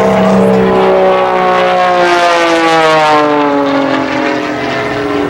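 Airplane passing by with its engine note falling steadily in pitch as it goes past.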